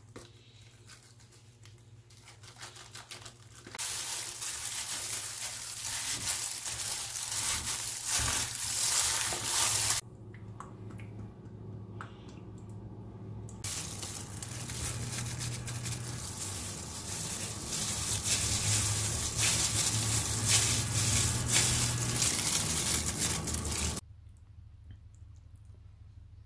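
A tofu-and-tuna mixture frying in oil in a nonstick pan, sizzling loudly in two long stretches with a quieter gap between them. The sizzle cuts off suddenly near the end.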